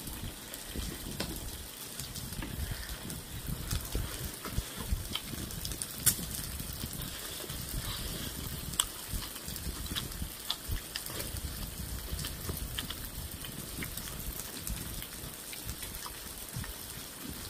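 Close-miked eating sounds: a person chewing grilled pork belly and kimchi with wet mouth noises, and scattered sharp clicks all through.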